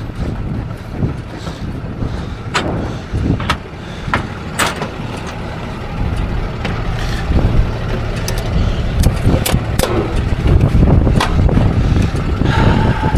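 Truck engine idling: a low steady rumble that grows louder about halfway through, with scattered sharp knocks and clanks over it.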